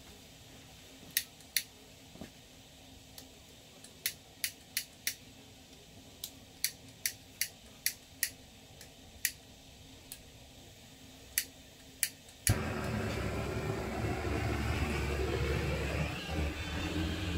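Wood crackling in a wood-burning stove as the fire takes: sharp, irregular pops, about twenty over twelve seconds. About twelve seconds in it cuts abruptly to a much louder, steady low rumble with noise.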